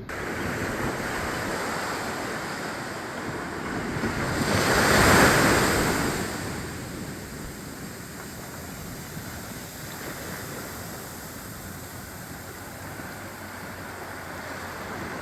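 Ocean surf washing onto the shore, with one wave breaking louder about five seconds in, and some wind on the microphone.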